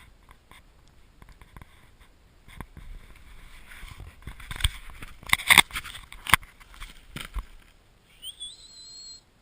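Snow crunching with scattered soft thumps as a dog moves through a snow tunnel, busiest in the middle. Near the end comes a brief high whistle that rises and then holds.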